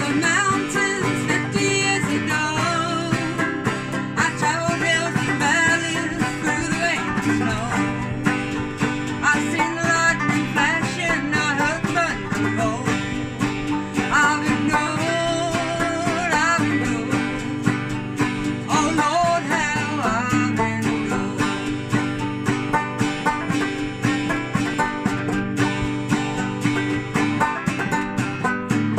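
Acoustic string band playing an old-time country song, with plucked strings picking a steady rhythm.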